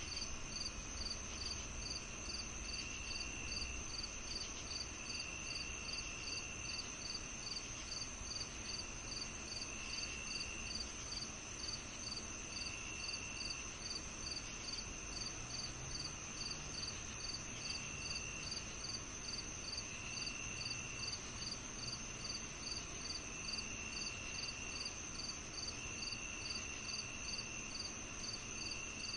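Evening chorus of crickets and other insects: one steady high trill, a regular chirp repeating two to three times a second, and shorter, lower trills that start and stop every couple of seconds.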